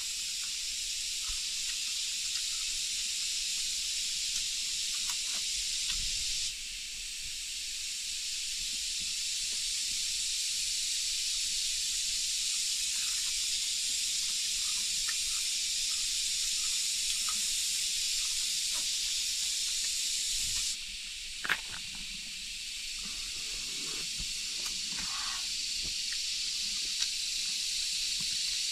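Steady rain, an even high hiss that drops abruptly about six seconds in and jumps back up about twenty seconds in, with one sharp knock just after.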